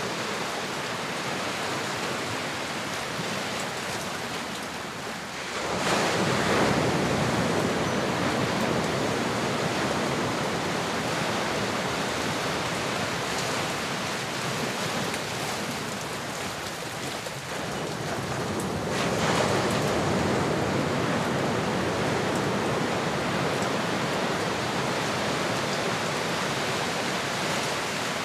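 Ocean surf: a steady wash of waves, with two larger waves breaking, about six seconds in and again about thirteen seconds later, each swelling up suddenly and fading slowly.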